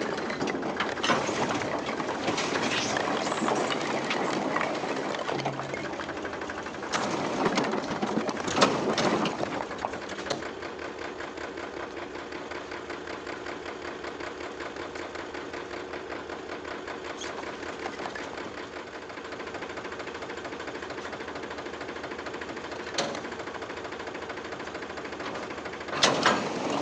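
Powertrac Euro 50 tractor's diesel engine running steadily while pulling a fully loaded trolley. It is louder and rougher for the first ten seconds, with a brief loud burst near the end.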